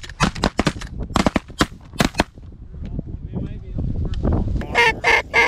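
A rapid volley of shotgun fire from several hunters, about a dozen shots packed into the first two and a half seconds. A few short goose honks follow near the end.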